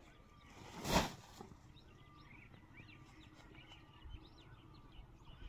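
Small birds chirping in many short, quick calls, with one brief loud rush of noise about a second in.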